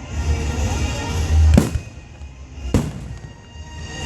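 Aerial fireworks bursting: two sharp bangs about a second and a half and nearly three seconds in, over a steady low rumble of the show.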